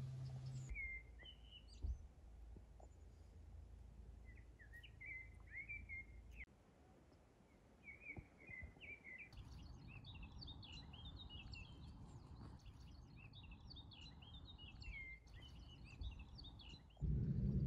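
Small birds chirping and twittering faintly, a few scattered calls at first, then several birds calling together from about nine seconds in. The end of a guitar music track fades out at the very start.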